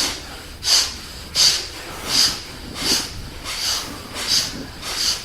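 Forceful breathing through the nose in a fast, even rhythm: about eight short, sharp breaths, one every 0.7 seconds or so, as in a fast breathing exercise.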